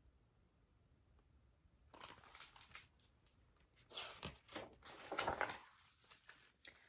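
Paper rustling and crinkling as a picture-book page is handled and turned, in two bouts starting about two and four seconds in.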